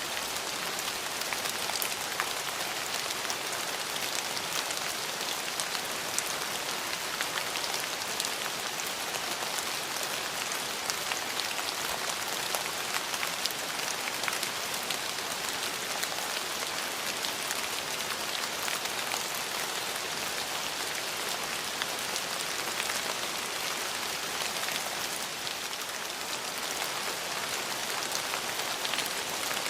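Steady rain falling on a hard surface, with many close, distinct drop ticks over an even hiss.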